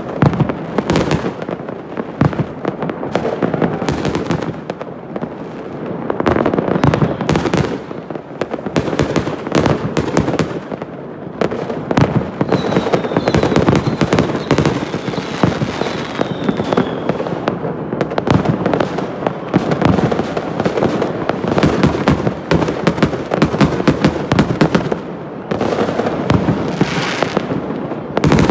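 Fireworks and firecrackers going off: a dense, continuous crackle of many bangs and pops, with a faint thin whistle falling slightly in pitch partway through.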